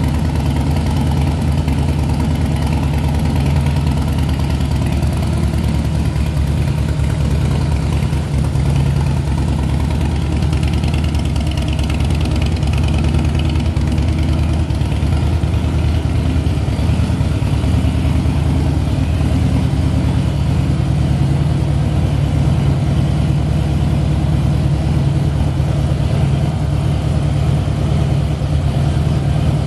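Harley-Davidson Twin Cam 103 V-twin idling steadily through Vance & Hines slip-on mufflers.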